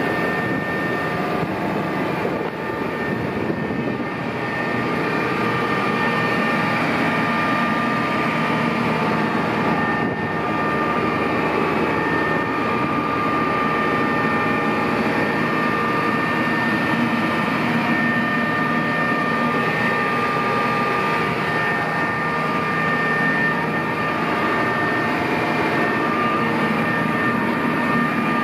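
Diesel engine of a 2008 McCormick XTX 200 Xtraspeed 4wd tractor running steadily, with a steady high whine over the engine note.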